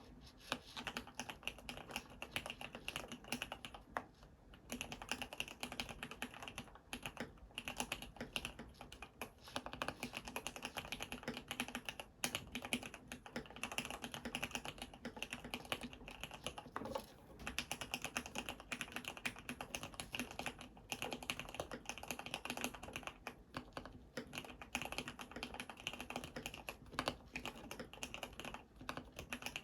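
An ABKO AR87 full-aluminium mechanical keyboard being typed on in fast, continuous runs of keystrokes with a few short pauses. It has black-housing Cherry MX Red linear switches lubed with Super Lube grease and Cherry-profile PBT keycaps.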